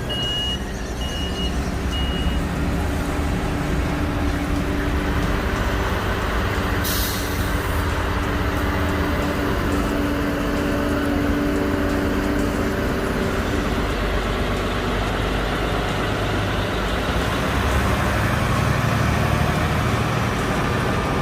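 Heavy truck engine running steadily under load. A reversing alarm beeps at the start and stops after about two seconds, and an air brake gives a short hiss about seven seconds in.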